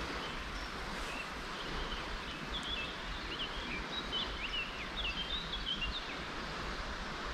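A small songbird singing a quick twittering run of short chirps, from about a second in to about six seconds, over a steady outdoor background rush.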